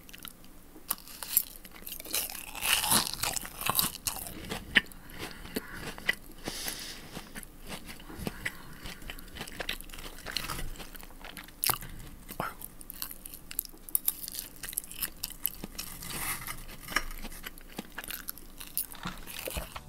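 Close-miked ASMR eating: chewing and biting food, with crunchy bites and a dense run of small crackly mouth clicks.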